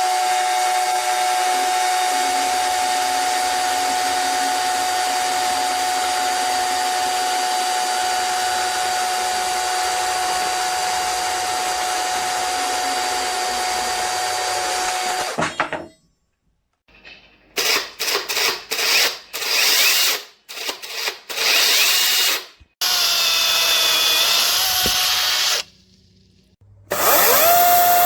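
Bosch UniversalChain 18 cordless electric chainsaw running at a steady high whine for about fifteen seconds, then stopping. It follows with a series of short trigger bursts, a longer run whose pitch sags briefly about twenty-four seconds in, and a fresh spin-up near the end.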